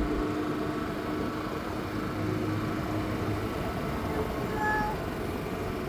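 A vehicle engine running with a steady low hum that fades away a little past halfway, then a brief short tone near the end.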